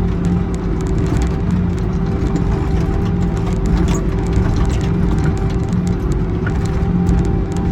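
Excavator's diesel engine running steadily under work, with scattered light clicks and knocks over it.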